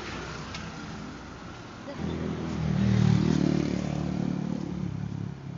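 A vehicle engine running. It gets sharply louder about two seconds in, is loudest a second later, then slowly eases off.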